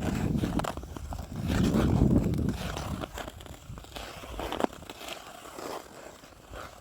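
Ice skate blades scraping and clicking on lake ice, with wind rumbling on the microphone, strongest around the second second.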